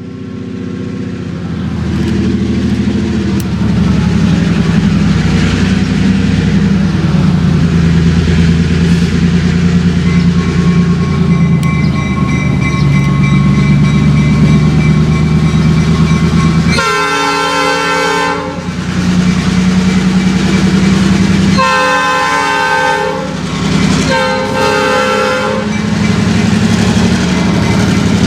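Diesel freight locomotive running with a steady low engine rumble, sounding its air horn three times about two-thirds of the way through; the first blast is the longest.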